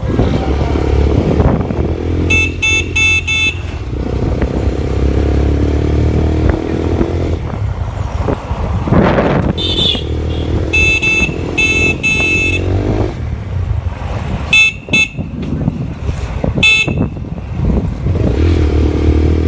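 Motorcycle engine running steadily while riding, with vehicle horns beeping in quick series of short toots several times.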